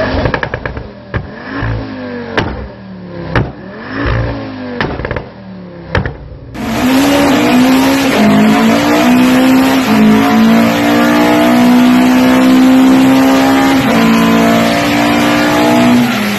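Mk2 Ford Focus ST's five-cylinder turbo engine revved in quick blips, with sharp exhaust pops and bangs between them. About six and a half seconds in this gives way to a Mk1 Ford Escort's engine at full throttle on a rolling-road dyno: it climbs in pitch, holds at high revs, then drops off near the end.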